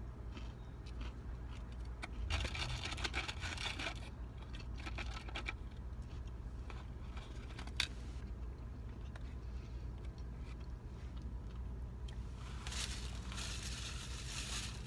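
Crunchy chewing of fried breaded shrimp in several bursts, with a sharp click about 8 seconds in, over the steady low hum of the car.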